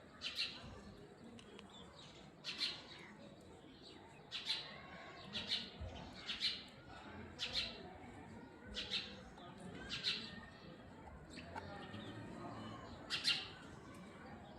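Bird chirping: short single chirps, about one a second, over a quiet steady background.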